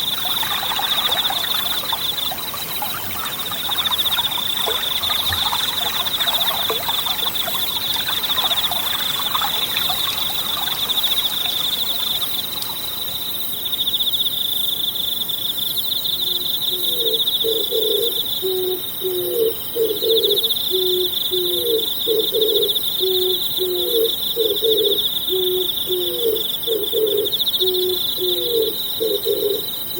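Forest insects trilling steadily at one high pitch. The babble of a small stream is heard for the first dozen seconds. From about halfway through, a low call repeats every second or two.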